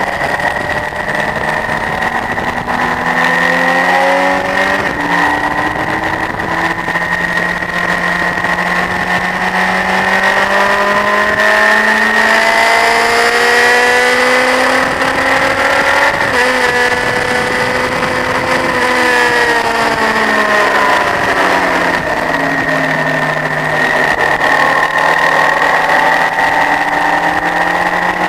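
Honda CBF1000 inline-four motorcycle engine pulling hard, its pitch climbing in steps as it shifts up through the gears, then falling about halfway through as the throttle is rolled off and it shifts down, before running steadily again near the end.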